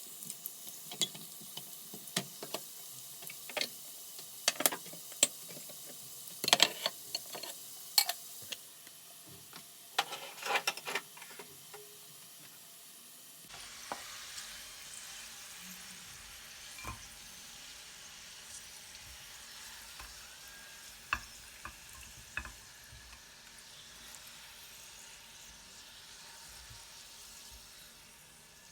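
Cooking sounds: quick clicks and taps of a utensil against a pan or dishes, changing about halfway through to the steady sizzle of food frying in a pan, with a few light clicks over it.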